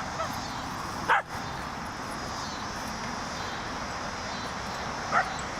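A dog barking twice, a single loud bark about a second in and a shorter one near the end, over a steady background hiss.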